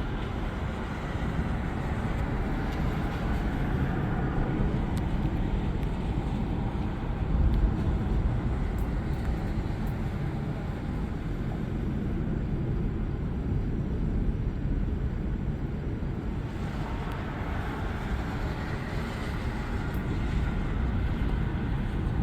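Thunderstorm noise: a continuous low rumble of thunder with wind on the microphone, swelling louder for a moment about seven and a half seconds in.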